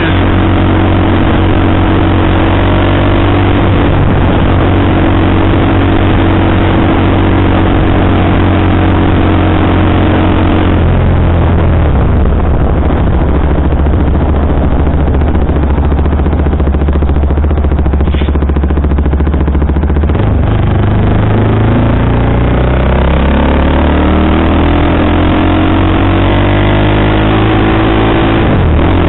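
KTM sportbike engine, fitted with a Powertronic ECU running map 1, heard while riding: a steady cruising note, then a low steady note for several seconds from about eleven seconds in, then rising in pitch as the bike accelerates near the end.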